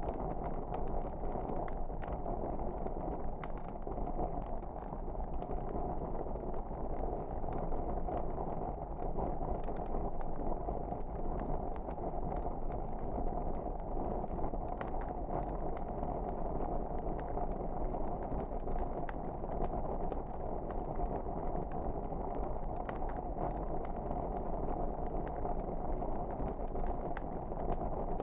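Wood fire burning with a steady low rush and frequent small crackles and pops scattered at irregular intervals.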